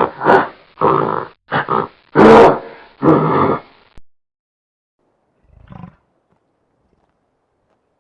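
Gorilla calling in a rapid run of short, loud roars, about two a second, the loudest a little past two seconds in, stopping about four seconds in; one faint call follows near six seconds.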